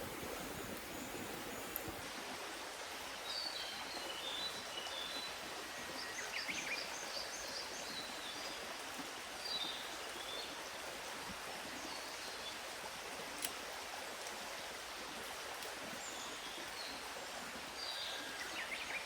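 Steady rush of a forest stream, with small birds chirping in short bursts now and then over it.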